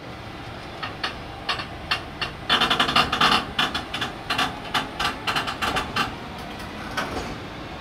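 Container freight wagons of a train pulling away from a stop, giving a run of sharp, ringing metallic clanks that come thickest about three seconds in and die away near the end, typical of coupler slack being taken up wagon by wagon as the train starts.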